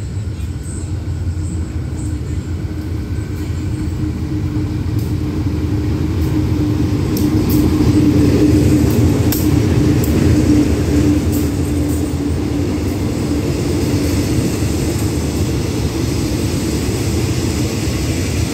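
Diesel locomotive hauling a passenger train into the station: a steady low rumble and engine hum, loudest as the locomotive passes about eight to eleven seconds in, then the coaches rolling past as the train slows to a stop.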